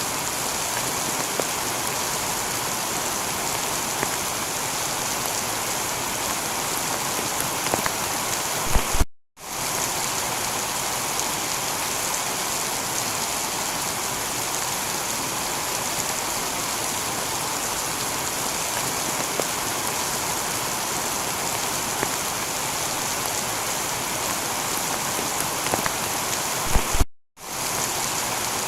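Heavy rain falling steadily on a tiled roof, an even hiss. Twice, about nine seconds in and again near the end, a sharp crackle is followed by the rain cutting out completely for a split second, like a seam in a looped recording.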